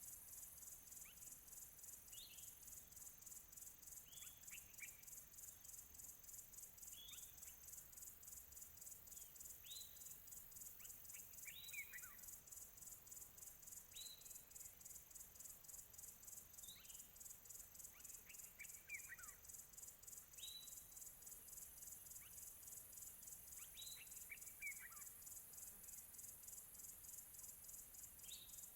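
Faint chorus of crickets, a continuous high, fast-pulsing trill. Over it a bird repeats short calls that slide downward in pitch, every two or three seconds.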